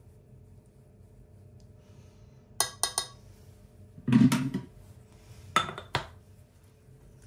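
Kitchenware being handled: three quick clinks about two and a half seconds in, a heavier clatter around four seconds, then two more clinks near six seconds.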